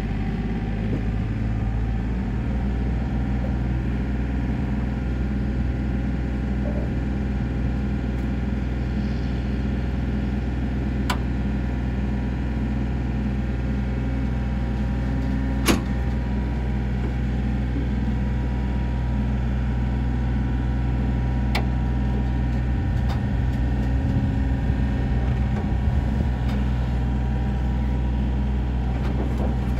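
Tow vehicle driving at a steady speed: an even, low engine and road drone. Three sharp clicks cut through it, the loudest about halfway.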